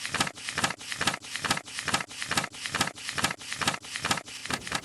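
A rapid, even run of sharp clicks, about five a second.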